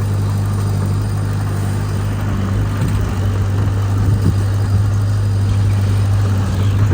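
Heavy diesel engine of earthmoving machinery running at a steady speed, a constant low drone with no change in pitch.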